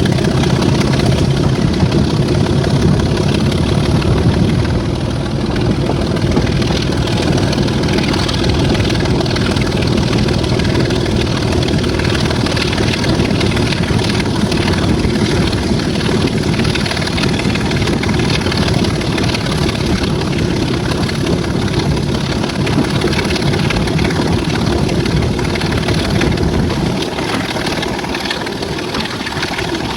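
Class 26 diesel locomotive's six-cylinder Sulzer engine running steadily with the train on the move, a constant drone mixed with running noise, easing a little near the end.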